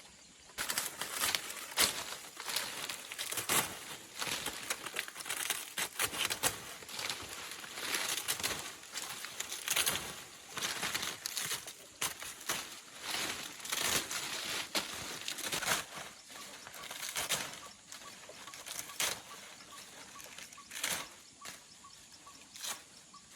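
Irregular rustling and crackling, like dry leaves or fronds being handled and shaken, in quick uneven bursts throughout.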